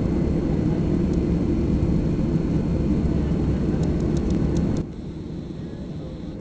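Airliner cabin noise: a steady low rumble of engines and airflow. It drops suddenly to a quieter level about five seconds in.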